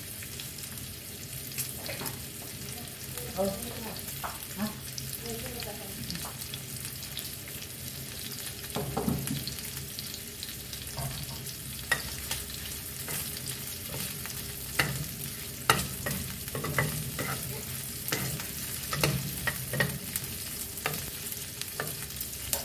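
Diced roast pork and prawns sizzling steadily in oil in a nonstick frying pan over a gas flame. A spatula stirring them clicks and scrapes against the pan now and then.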